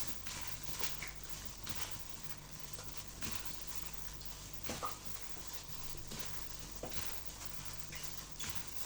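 Irregular light taps and knocks, roughly one a second, over a steady low hum.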